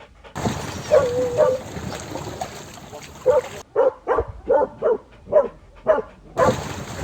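Dog whining once, then giving a quick run of short, sharp barks.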